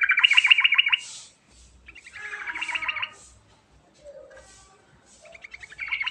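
Yellow-vented bulbul (trucukan) singing: three short phrases of rapid chattering notes, each about a second long, at the start, about two seconds in and near the end.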